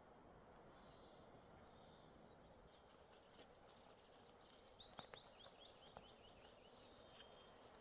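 Faint bird song: two runs of quick, high, chirping notes stepping downward, the second longer, over a quiet steady background hiss, with a couple of faint clicks.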